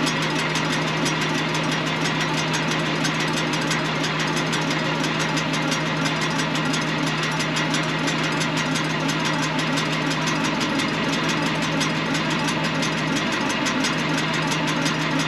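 Tractor engine sound, steady and even, with no change in speed.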